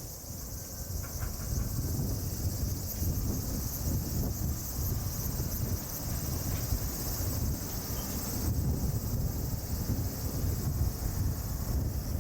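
Wind rumbling on the microphone, with a steady high-pitched insect chorus behind it.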